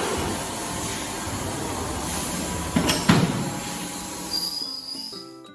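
Factory workshop machinery noise: a loud, steady hiss and rumble with a few heavy knocks about three seconds in and a thin high whine near the end, fading away at the close.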